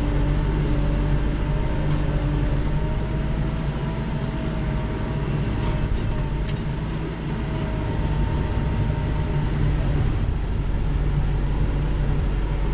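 Kubota L3940 compact tractor's diesel engine running steadily under load while back dragging snow, with a faint whine that wavers slightly in pitch. The loudness dips briefly about seven seconds in.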